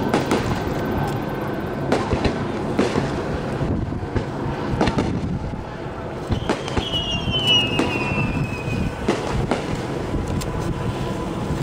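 Aerial firework shells bursting in a steady series, a sharp report every second or two with crackle between. Just past the middle, a thin whistle slides slowly down in pitch for about two seconds.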